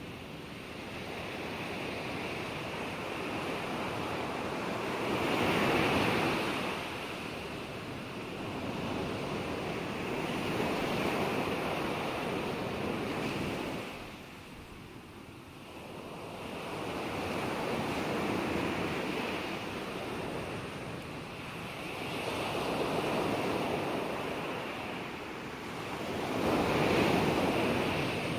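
Ocean waves breaking and washing in, the surf swelling and fading in slow cycles every four to six seconds, about five swells, with a quieter lull near the middle.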